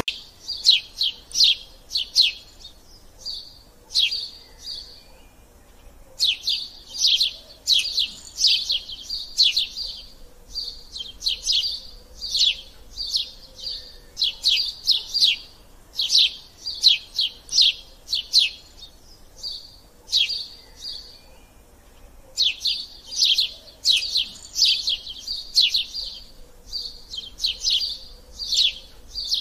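A small songbird singing: phrases of rapid, high chirps a few seconds long, repeated with short pauses between them.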